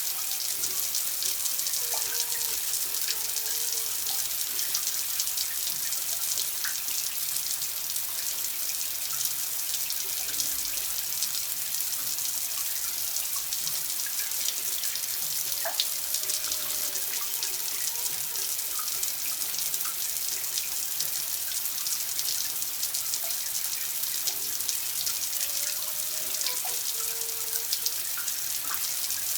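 Water running steadily from a tap, a continuous hiss with small scattered splashes and drips.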